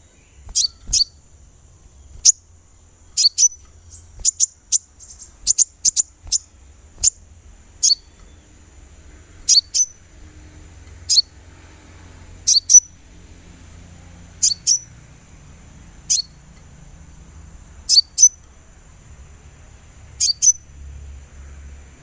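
Sunbird giving short, sharp, very high chirps that slide downward, repeated about every second or so and often in quick pairs, over a faint steady high-pitched ringing.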